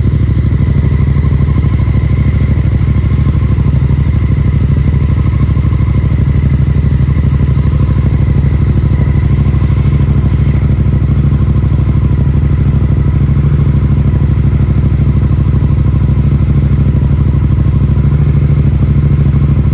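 Yamaha MT-07 parallel-twin engine idling steadily through an aftermarket Yoshimura exhaust while still cold from a cold start. The exhaust note is deep and even, with no revving.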